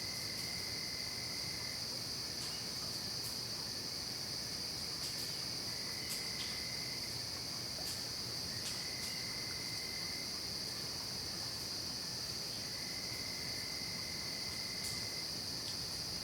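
Night chorus of crickets: a steady, high, even trill that never lets up, with a lower trill coming and going in stretches of a second or two, about four times.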